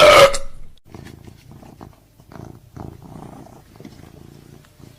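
A loud, sudden sound for the first moment, then a cat purring in steady, rhythmic cycles, each lasting about half a second.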